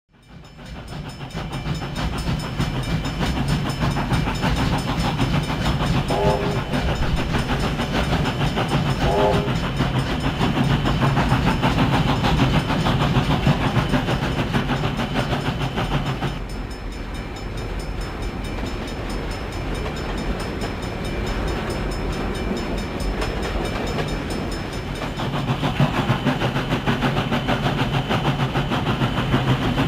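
Railway train running with a steady, heavy drone. Two short pitched toots come about six and nine seconds in. The sound changes abruptly about halfway through, drops, then builds again near the end.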